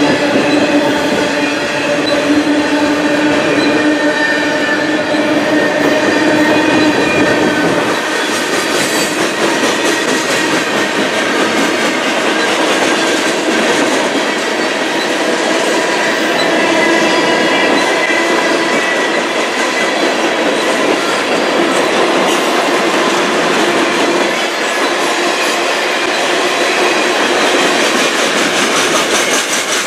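Freight train cars, tank cars and covered hoppers, rolling steadily past on the rails, with a steady, ringing squeal from the wheels that changes pitch now and then.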